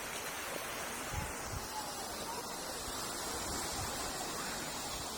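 Sea surf washing steadily, with wind noise on the microphone.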